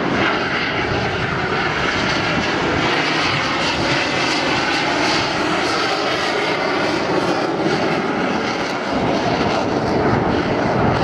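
Jet noise from an Aermacchi MB-339 PAN's Rolls-Royce Viper turbojet as the Frecce Tricolori solo aircraft flies a display manoeuvre. The jet noise is loud and steady throughout, dipping slightly near the end.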